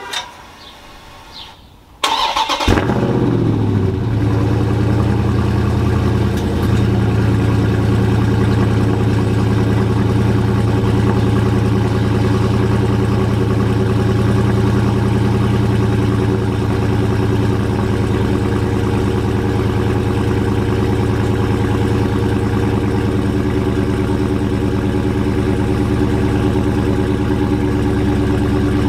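Dodge Charger Scat Pack's 6.4-litre HEMI V8 cold-starting about two seconds in: a sudden flare in revs that falls away and settles into a steady cold idle. The exhaust is still stock, with the mid mufflers fitted.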